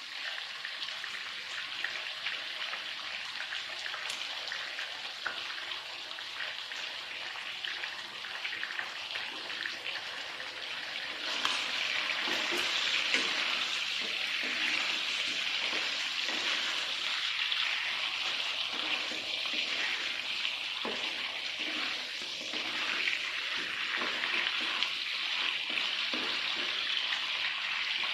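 Food sizzling as it fries in a pan, a steady hiss that grows louder about eleven seconds in.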